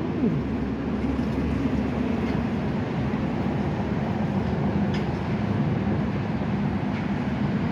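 A steady rumbling noise with a faint low hum, like vehicle noise, running evenly throughout.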